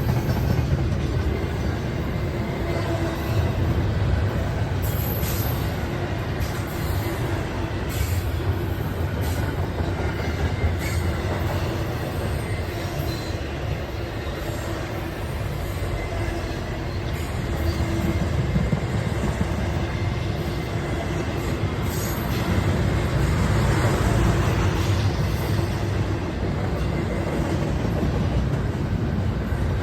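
A train rolling past close by: a steady rumble of wheels on rail with a few faint clicks.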